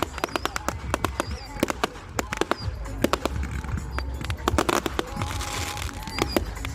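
Fairground music over a deep rumble, with a dense, irregular run of sharp cracks and pops from crackling fireworks all through.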